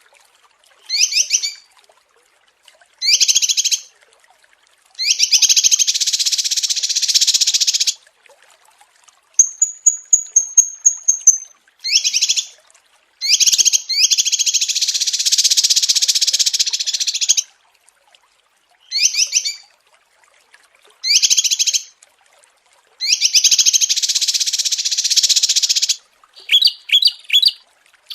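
Small songbirds singing in repeated bursts of rapid, high-pitched trilling, some short and some lasting two to three seconds, with silent gaps between. There is a thin, high whistled series partway through and a quick run of separate notes near the end.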